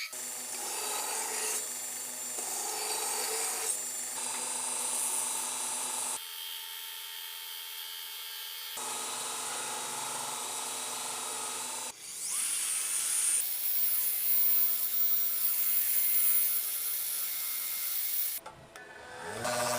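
Metalworking tools grinding and filing a steel blade, a steady rasping and whirring sound. It changes abruptly several times as short clips are cut together.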